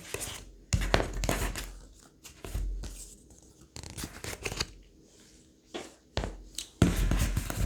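A deck of tarot cards being handled: several bursts of papery rustling, sliding and soft slaps as the cards are shuffled and drawn, with short pauses between.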